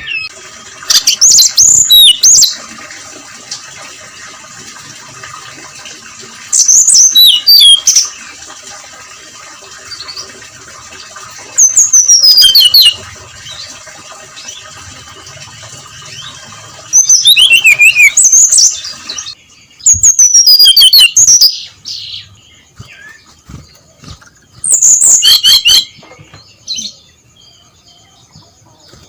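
Brown-chested jungle flycatcher singing loud phrases of high, clear notes that slide downward, about six phrases a second or two long, each a few seconds apart.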